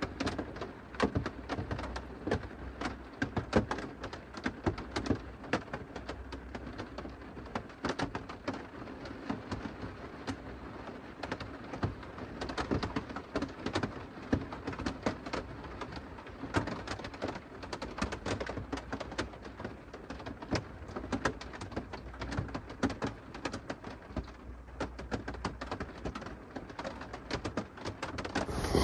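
Rain falling on a van's roof, heard from inside: a dense, irregular patter of drops, with a steady low hum underneath.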